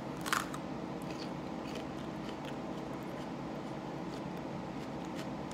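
A single crisp bite into a raw jalapeño pepper about a third of a second in, followed by faint chewing with small scattered clicks.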